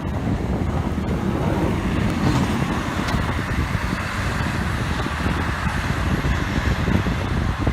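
Snowplow truck driving by, a steady engine rumble with road noise.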